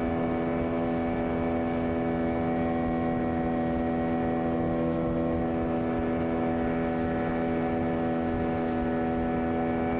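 Outboard motor running at a steady, unchanging speed with the boat under way.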